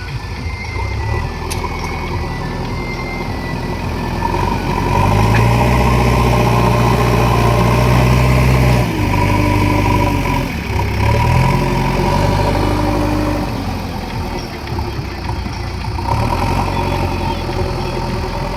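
JCB 3DX backhoe loader's diesel engine running and revving up under load twice: a long rise held for about four seconds, a brief drop, then a second, shorter rise. It then settles back to a lower, steadier run.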